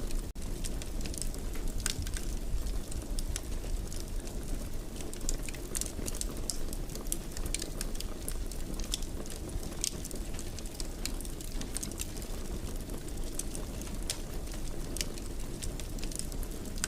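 Wood fire burning in a fireplace: a steady low rumble of flames with frequent small, sharp crackles and pops. The sound cuts out for an instant about a third of a second in.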